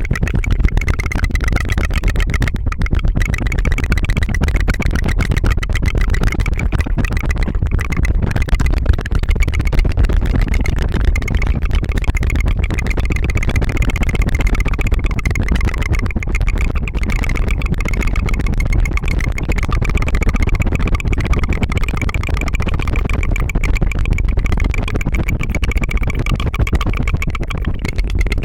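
Rapid tongue fluttering close to the microphone: a fast, unbroken purring rattle of the tongue, held steadily throughout.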